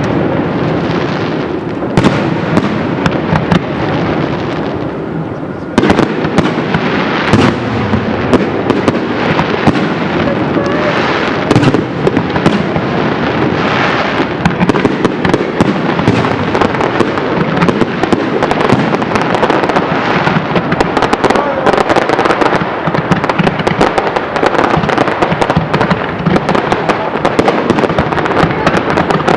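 Fireworks display: a non-stop barrage of shell bursts and crackling, with a few heavier bangs in the first third and the crackle growing denser through the second half.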